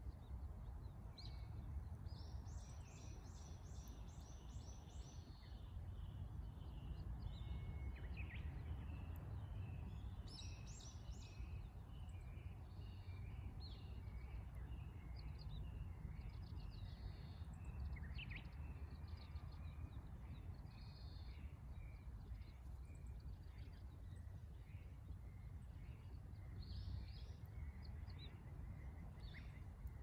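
Several small birds singing and calling, with short high notes repeating over and over and a few brighter bursts of song, over a steady low outdoor rumble.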